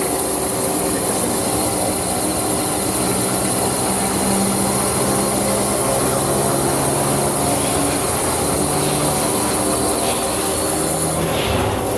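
CNC machine drilling and cutting a metal car part: a steady machining noise over a constant hiss, with the spindle's hum holding one pitch and then stepping to another every few seconds.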